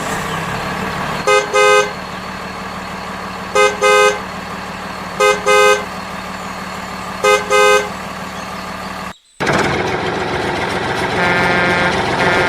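Vehicle horn sounding double toots, a short one then a longer one, four times about two seconds apart over a steady engine hum. After a sudden break just after nine seconds, a louder engine sound runs on and a long horn note comes near the end.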